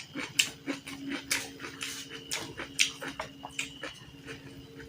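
Close-miked eating sounds: irregular wet smacks, clicks and chewing of food in the mouth, over a faint steady hum.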